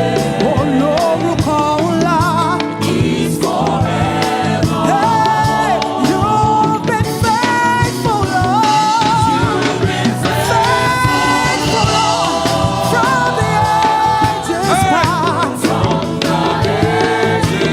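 Live gospel praise-and-worship music: a lead singer's voice with wavering, sliding runs over a band with drums and a steady bass.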